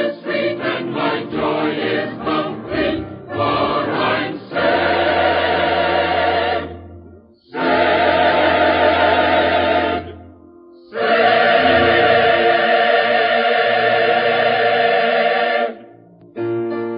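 Gospel choir singing: quick short notes for the first four seconds, then three long held chords with brief breaks between them. The recording is old and dull, with no treble.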